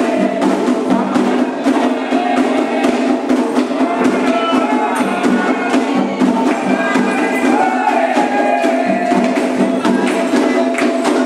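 Candomblé ritual music: a steady rhythm of hand drums and struck percussion, with a group of voices singing throughout.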